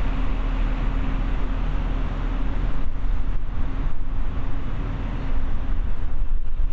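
A train running past close by: a steady rumble with a low, even hum.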